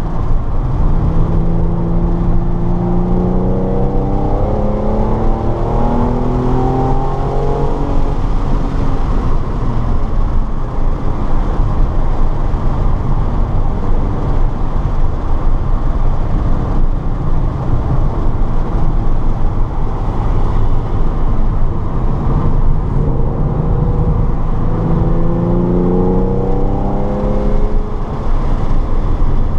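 Car engine accelerating hard on a race track, its pitch climbing in steps during the first several seconds and again near the end, with constant road and wind noise in between.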